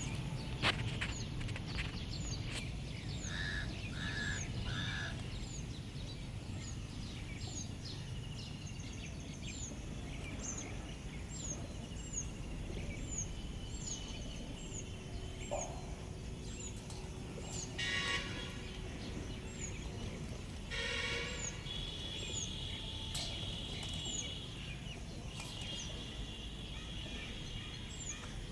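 Wild birds calling over a steady low background rumble. One bird repeats a short, high, falling chirp about once a second, other calls come and go, and two louder calls stand out late on.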